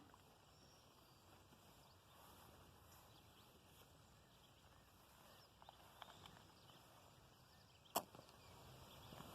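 Near silence: faint outdoor background, with a few small ticks and one sharp click about eight seconds in.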